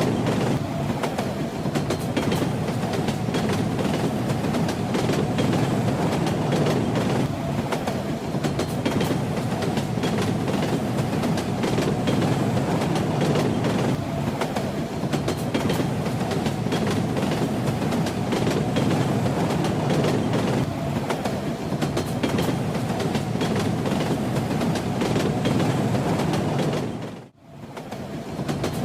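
Train running on rails: a steady rumble with the clatter of wheels over the track. The sound briefly drops away about a second before the end, then comes back.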